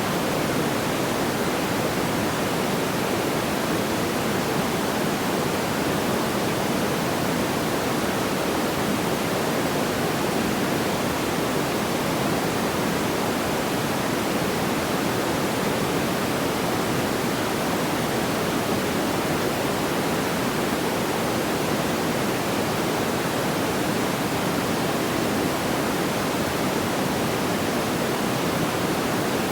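Steady, even rushing noise, deepest in the low-middle range, with no crackles, pops or changes.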